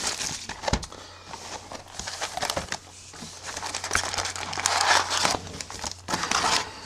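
Plastic wrapping crinkling and tearing as a sealed hobby box of trading cards is opened, in irregular rustles with scattered clicks, over a steady low hum.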